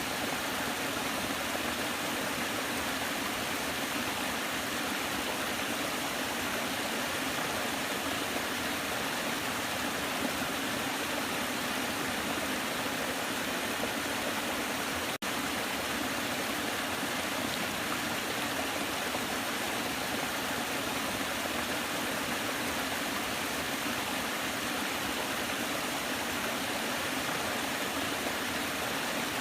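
Waterfall: a steady, even rush of falling water, mostly hiss with little deep rumble, broken by a momentary dropout about halfway through.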